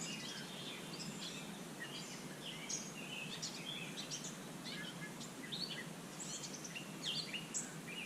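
Songbirds chirping and twittering, many short quick notes, over a steady background hiss.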